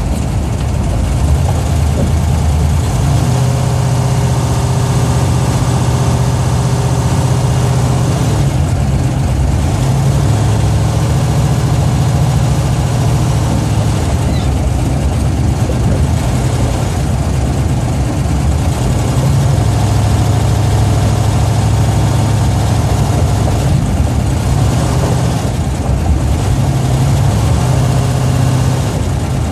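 Plymouth Duster's 440 big-block V8 heard from inside the cabin while driving, a loud steady engine drone whose note shifts and drops away several times as throttle and gears change.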